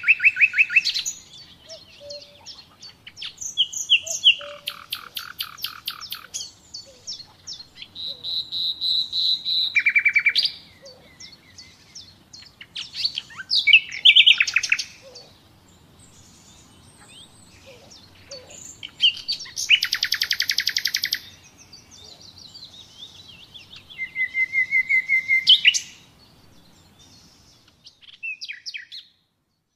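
Nightingale singing: separate phrases of fast repeated notes and trills, each one to three seconds long, broken by short pauses.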